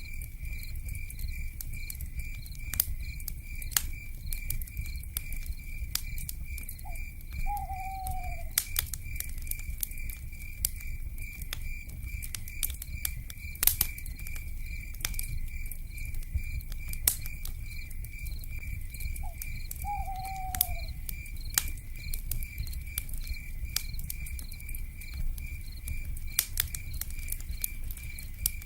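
Wood fire crackling with irregular sharp pops over a low steady rumble, with an insect chirping in a steady pulsing rhythm. Twice, about twelve seconds apart, an owl gives a short note followed by a longer falling hoot.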